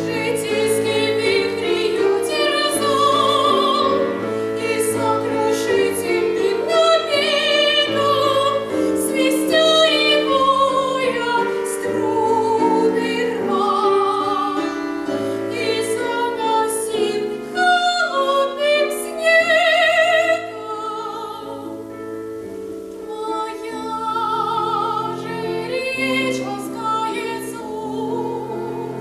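A woman singing a classical art song in operatic style, with wide vibrato, over instrumental accompaniment.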